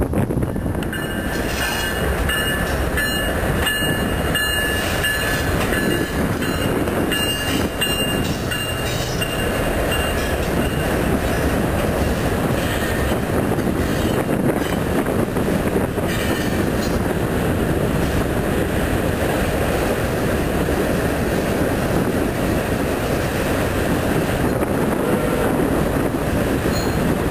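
CN freight train rolling past, a steady rumble of locomotive and freight cars on the rails. A high steady squeal runs through roughly the first ten seconds, then fades.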